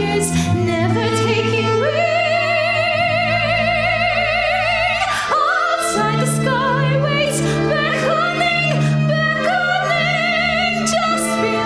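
A soprano sings a slow musical-theatre song in an operatic style, with wide vibrato on long held notes, over sustained instrumental accompaniment. The accompaniment drops away briefly about halfway through as the voice slides up to a new phrase.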